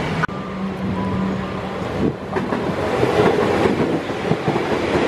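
Train running past at a station platform: a steady rumble with a held tone over the first second and a half, then the wheels knocking over the rail joints.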